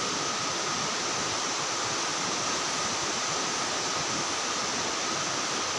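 Steady outdoor night ambience: an even hiss with a faint, constant high-pitched tone running through it.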